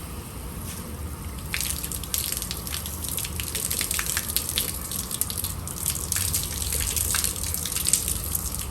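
Rinse water spraying and splashing onto a car window, getting louder and splashier about a second and a half in.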